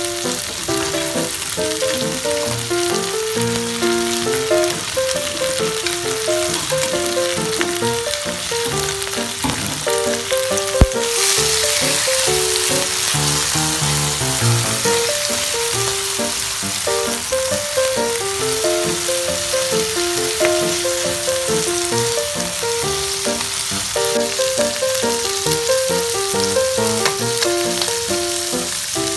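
Beef skin (kikil) and green chillies sizzling as they stir-fry in a non-stick pan. About eleven seconds in, a sharp knock is followed by louder sizzling. Ragtime piano music plays over it.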